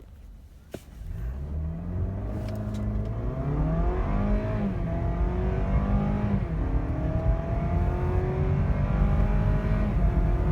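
2017 Cadillac ATS 2.0T's turbocharged four-cylinder engine under full-throttle acceleration from a launch. About a second in the revs climb hard, and the pitch drops back at each upshift, three times, before climbing again.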